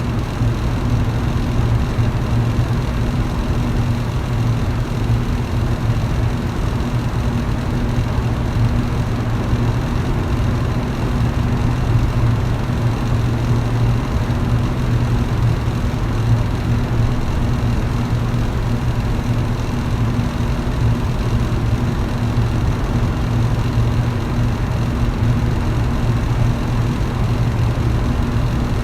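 Electric fan running steadily: a low motor hum under an even rush of air from the blades.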